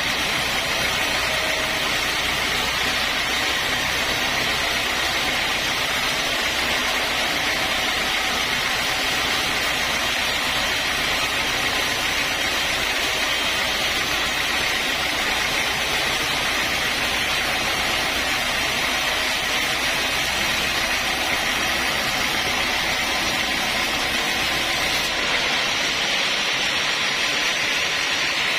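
Sawmill saw running steadily, probably cutting mahogany, with a constant hiss and a low machine hum. The hum and the highest hiss drop off a few seconds before the end.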